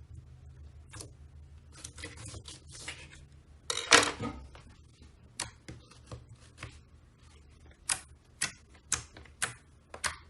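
Slime being pressed and squeezed by hand, making sharp clicking pops, with a louder crackling squelch about four seconds in and a run of pops about twice a second near the end.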